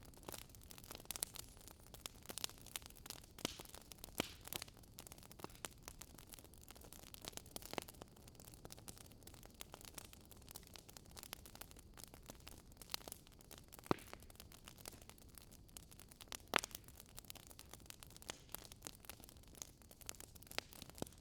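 Wood fire crackling, with soft irregular pops and ticks over a faint hiss and two sharper snaps in the second half.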